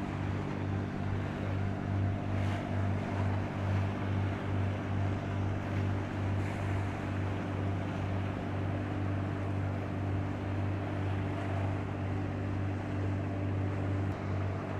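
A ship's engines droning: a low, steady hum that throbs a few times a second, over a continuous wash of water and wind noise.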